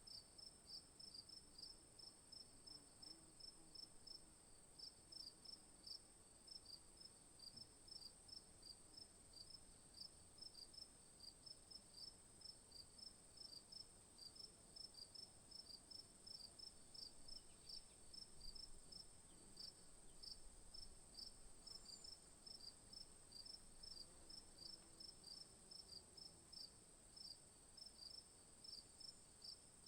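Faint insects chirping: short, evenly repeated high chirps, several a second, over a steady high-pitched trill.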